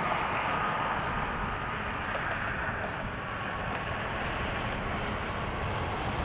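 Jet airliner engines running, a steady rush with a thin whine on top, with gusty wind rumbling on the microphone.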